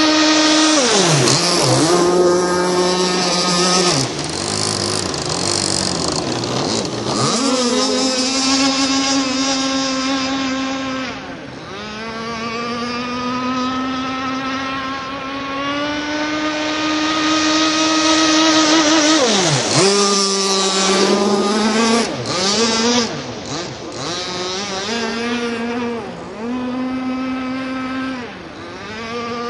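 Radio-controlled racing catamaran's motor running at speed, its pitch dropping sharply and climbing back several times.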